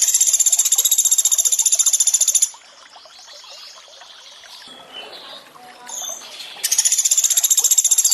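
Rapid, high-pitched rattling trill of the Sunda pygmy woodpecker ('pelatuk beras'), two long bursts, one at the start lasting about two and a half seconds and another starting near the end, over a steady trickle of running water.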